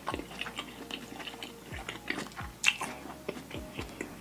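Close-miked eating of deshelled seafood boil: wet, clicky chewing and smacking sounds with a sharper bite about two and a half seconds in.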